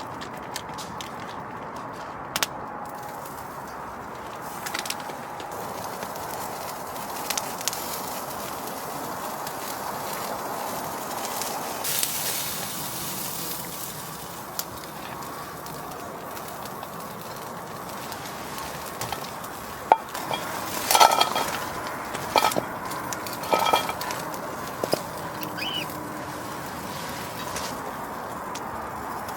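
Campfire cooking sounds: a steady hiss with scattered small clicks, and a run of clinks from cookware and utensils knocking together about two-thirds of the way through.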